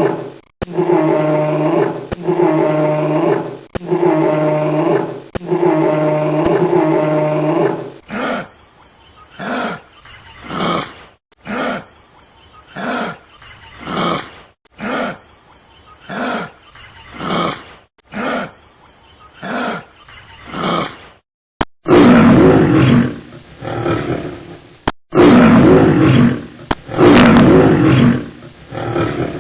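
A run of animal calls spliced from three different clips. First come five even, pitched calls, each about a second long. Then about ten short calls a little over a second apart. Near the end come several long, loud calls, the loudest part.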